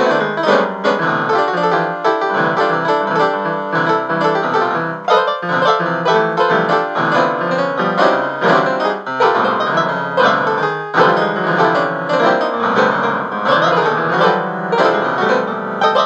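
Piano music playing continuously, many quick notes.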